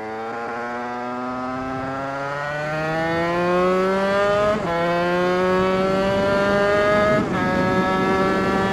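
Two-stroke moped engine bored out with an 80cc MHR Team kit and a Bidalot 80/85 expansion pipe, accelerating hard through the gears: the pitch climbs steadily, drops sharply at an upshift about four and a half seconds in, climbs again and drops at a second upshift about seven seconds in.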